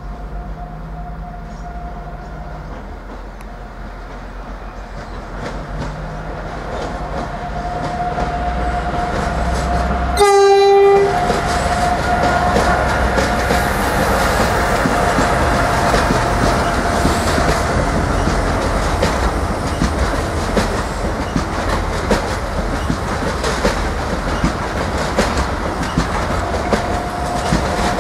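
Passenger train approaching and running through, its rumble growing louder over the first several seconds. About ten seconds in, the horn gives one short blast of about a second. Then the wheels clatter over the rail joints as the train rolls past.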